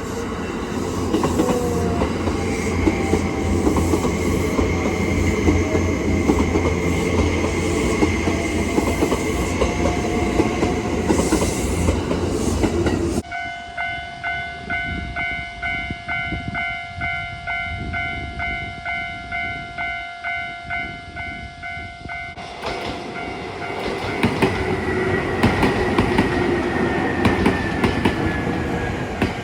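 An electric train passing over a railway level crossing, wheels clattering over the rail joints, then an abrupt change to the crossing's electronic warning bell ringing on its own at about one and a half strokes a second, then another train passing with a high tone that slowly falls in pitch.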